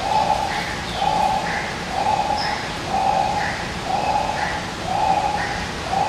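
A bird calling steadily, a short call repeated about once a second, with fainter higher notes between the calls.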